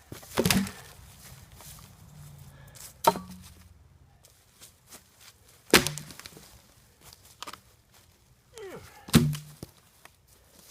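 Wood being struck during hand clearing of fallen trees: four sharp wooden knocks, spaced roughly three seconds apart.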